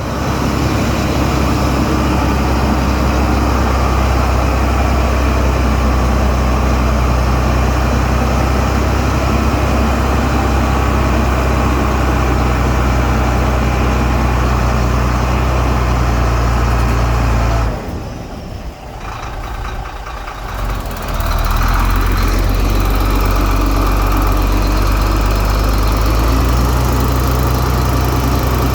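Heavy diesel engine of earthmoving machinery running steadily, with a deep, even engine note; it drops away for about three seconds past the middle, then comes back at full level.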